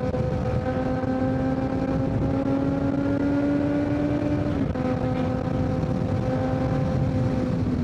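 Kawasaki Z900's inline-four through a full Leo Vince exhaust, pulling with its pitch rising slowly. About four and a half seconds in, the pitch drops suddenly as it shifts up, then it holds steady.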